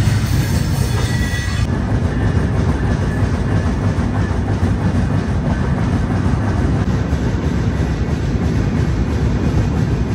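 Passenger train running along the track: a steady rumble of wheels and carriages on the rails.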